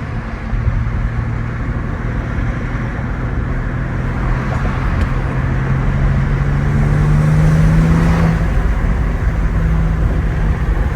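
BMW G80 M3's S58 twin-turbo straight-six pulling under acceleration over tyre and road noise. Its engine note rises steadily for about eight seconds, then eases off.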